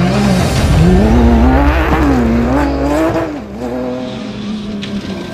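Rally car engine revving hard on a gravel stage, its pitch climbing and dropping several times with the throttle and gear changes. After about three and a half seconds it falls away as the car drives off.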